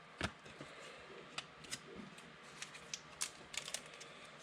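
Basketball trading cards being handled and flipped through: faint, scattered clicks and slides of card stock, about a dozen over a few seconds.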